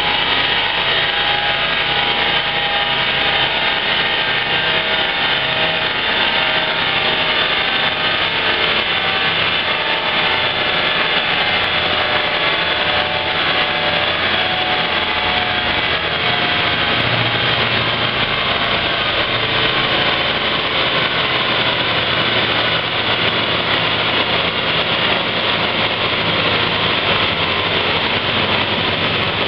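Car engine running steadily under load on a chassis dynamometer, breathing through a cone air filter, with the driven wheels spinning on the dyno rollers. It stays at an even speed with no clear rise or fall in revs.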